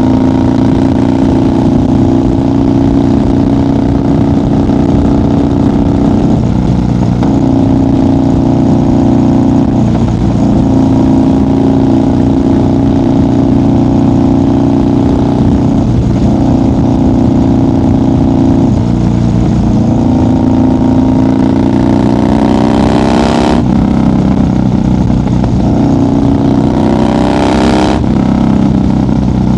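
1990 Harley-Davidson FXR's Evolution V-twin running at highway speed, its pitch shifting with the throttle. In the last third it revs up twice, each time rising steadily and then dropping suddenly, as when shifting up through the gears.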